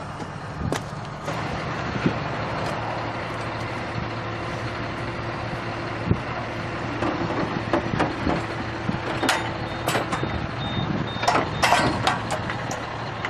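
Heavy vehicle's engine running steadily, with scattered knocks and clanks that come thicker near the end.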